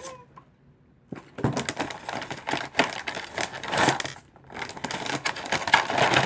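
Packaging of a modelling-dough set crinkling and rustling as it is handled and opened, starting about a second in.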